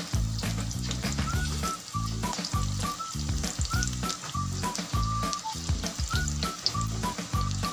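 Spinach pakoras deep-frying in hot oil in a kadhai, a steady sizzle. Background music with a steady low beat and a melody of short notes plays over it.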